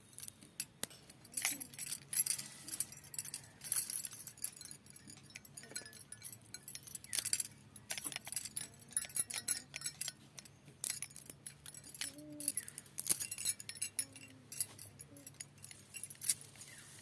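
Fresh leafy greens being handled and cut by hand: irregular crisp rustling, snapping and clicking, with a low steady hum behind.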